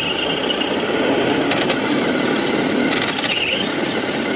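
Battery-powered RC truck's electric motor and gears whining steadily under load as it strains to pull a weighted sled, the pitch wavering slightly.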